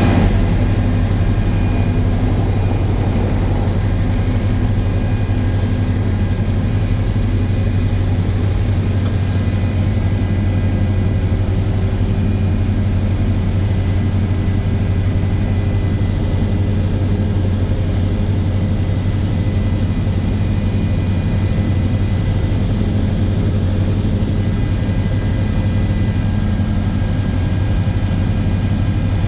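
Aircraft engine drone, a loud steady low hum with a few faint steady tones above it that holds unchanged throughout.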